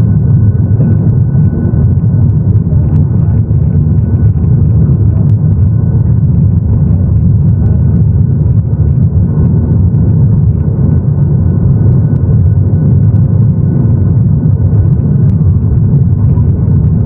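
Cabin noise inside a Boeing 737-800 airliner: a loud, steady rumble from its CFM56 engines and the airflow, with a faint steady whine above it.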